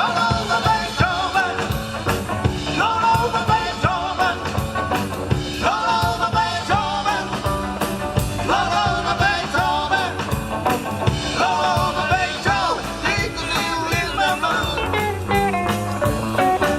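Rock and roll band playing live: drums, bass and a melody line that bends in pitch.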